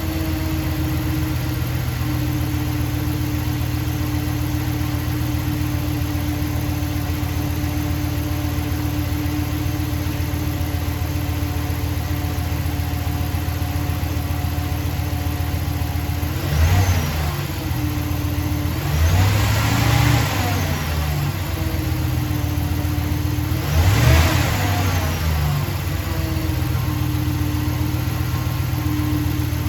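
Chrysler 5.7 Hemi V8 idling with the serpentine belt off, blipped three times past the middle and settling back to idle each time. The owner is chasing a noise from the engine itself that appeared after a new cam, lifters, timing chain and oil pump were fitted.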